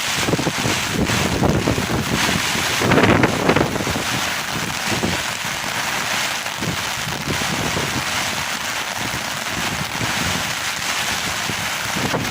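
Thunderstorm rain and wind in a steady hiss, with wind buffeting the microphone; a louder surge lasts about a second around three seconds in.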